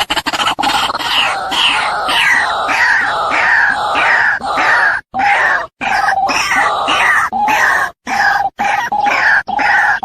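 Female white-breasted waterhen (ruak-ruak) calling, a lure recording. The bird gives a loud, rapid run of harsh calls that fall in pitch, about two to three a second, with a few brief breaks.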